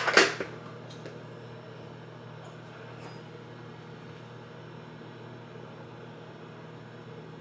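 Microwave oven running with a steady low hum while it melts butter. A dog barks once at the very start.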